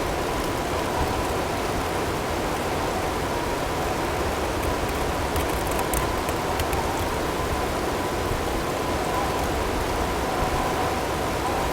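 Blizzard ambience: a steady rushing of wind-driven snow, with a few faint ticks of hail around the middle. Faint steady tones sit underneath.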